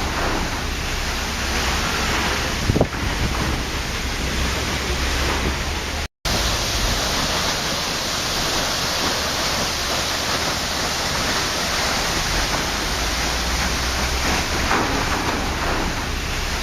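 Waterfall rushing, a steady full white-noise roar of falling water. About six seconds in the sound cuts out completely for a split second, then resumes.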